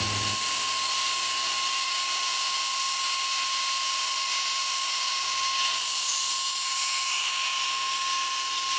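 A small high-speed motor running steadily: a constant whine with a rush of air.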